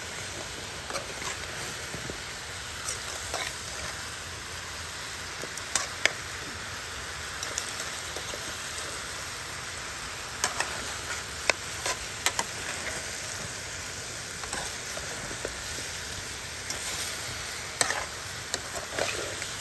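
Seasoned chicken and vegetables sizzling in a pot over a fire, the water cooked off, with a steady hiss. Scattered sharp clicks and knocks, a few louder, as the pot is stirred.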